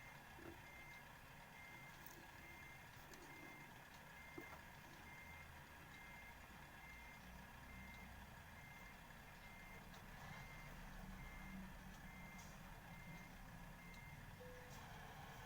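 A car's reversing beeper, faint and even at about two beeps a second, over a low, steady engine and road hum. The car is backing up. The beeps stop about a second before the end.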